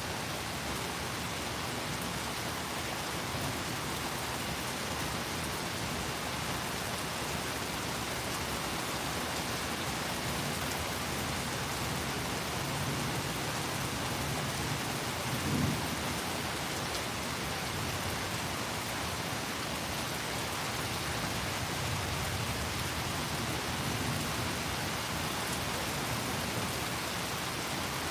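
Steady rain falling in a thunderstorm, with low thunder rumbling twice; the louder roll swells to a peak about halfway through.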